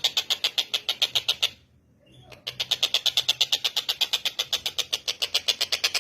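Tengkek buto (collared kingfisher) calling in a fast run of harsh repeated notes, about seven a second. The run breaks off for about a second, then starts again.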